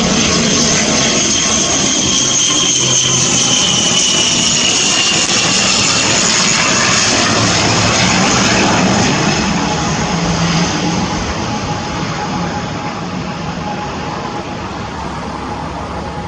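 ATR 72-600 twin turboprop passing close by, its engines running loud with a high whine that slowly falls in pitch. The sound drops off about nine or ten seconds in and fades as the aircraft moves away.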